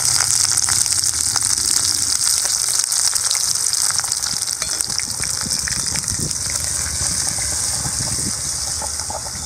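Chopped shallots and curry leaves sizzling in hot oil in a small aluminium kadai, the tempering (tadka) for sambar. The hiss is loud at first and eases slightly over the seconds.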